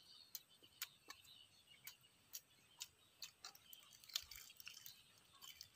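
Near silence with faint, short clicks about twice a second, slightly irregular: the mouth sounds of someone chewing quietly, lips and tongue smacking.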